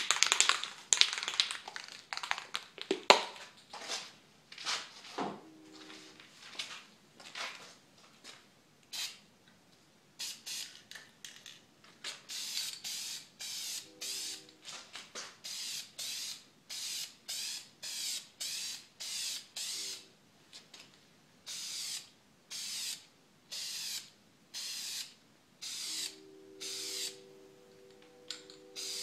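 Aerosol can of Krylon outdoor white gloss spray paint hissing in many short bursts, about one a second, from about a third of the way in. Before that come a few seconds of irregular clicks and rattles.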